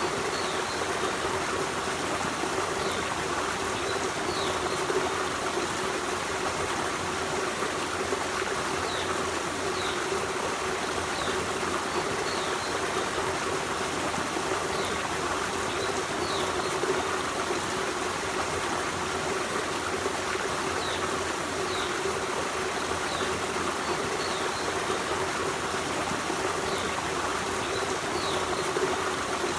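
Forest stream running steadily over rocks, a continuous rushing and trickling of water. Faint short high chirps sound every second or two over the water.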